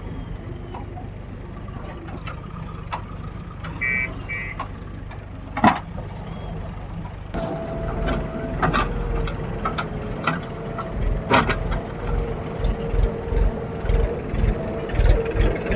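Diesel engines of heavy machinery running, with scattered knocks and a short double beep about four seconds in. About seven seconds in the sound changes abruptly to a louder engine with uneven low thudding.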